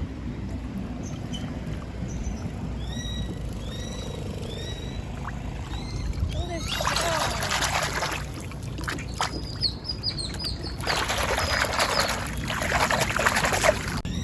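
Creek water splashing in two long bursts as hands are washed in it, with a bird calling a series of short chirps during the first half.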